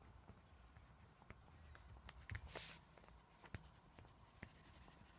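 Faint scratching of colouring strokes on paper, with a few light ticks and one longer, louder stroke about two and a half seconds in.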